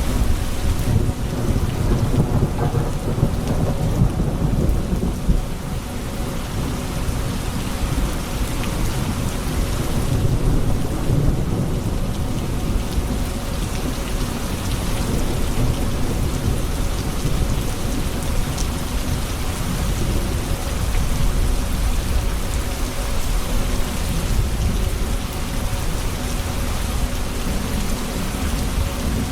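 Steady heavy rain falling, with low rolling thunder that swells in the first few seconds and again about ten seconds in.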